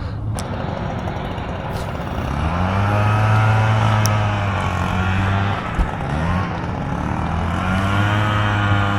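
A motor vehicle's engine running, its pitch rising and falling several times and louder from about two seconds in. A short knock near the end of the first minute-second mark's sixth second.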